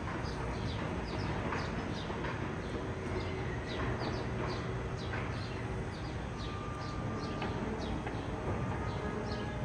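Small birds chirping over and over, short high downward-sweeping chirps a few times a second, over a steady low background rumble.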